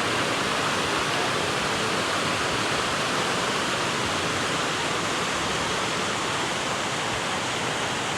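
River water rushing steadily over rocks, an even noise with no breaks.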